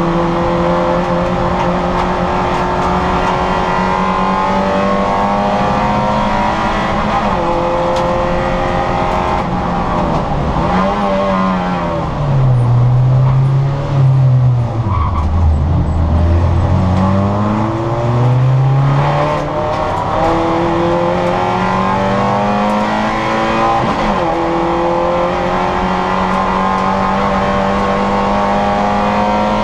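Citroën Saxo VTR's four-cylinder engine running at high revs. About ten seconds in, the revs drop in steps as it slows and shifts down, bottoming out around the middle. The engine then pulls back up through the gears and holds high revs again for the rest.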